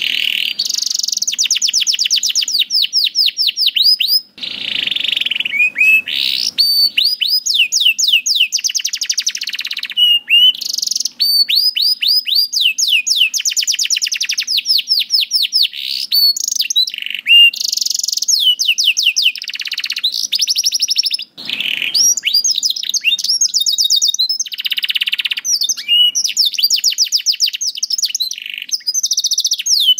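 Domestic canary singing a long, near-continuous song of rapid trills and repeated high notes, with short breaks about four seconds in and around twenty-one seconds.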